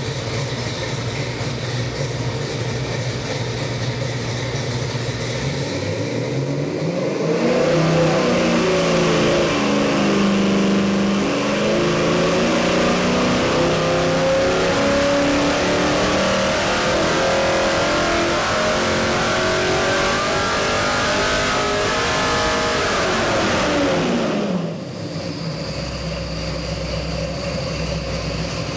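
Ford 347 stroker V8 crate engine with MSD EFI running on an engine dyno. It idles, then about seven seconds in it goes to full throttle and climbs steadily in pitch under load through a sweep test for about fifteen seconds. Then it drops quickly back to idle.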